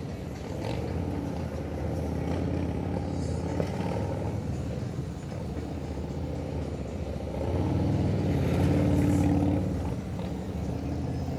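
Police motorcycle engine running at low speed through a cone course. It revs up and gets louder about two-thirds of the way through, then eases back.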